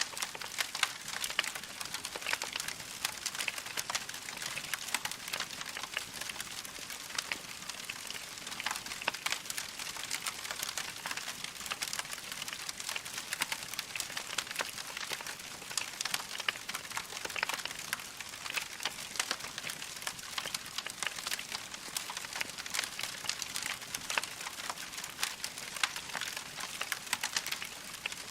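Log fire crackling steadily, a dense run of small pops and snaps with no pause.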